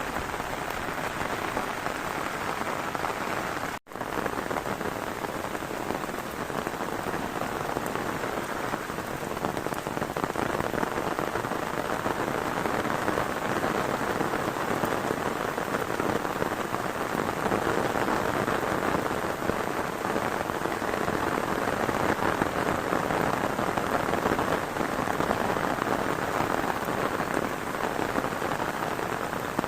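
Heavy rain falling steadily, a dense even hiss of drops, with a momentary cut-out of all sound about four seconds in.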